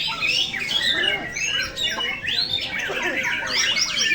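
Many caged murai songbirds singing at once: a dense, unbroken tangle of overlapping chirps, whistles and trills.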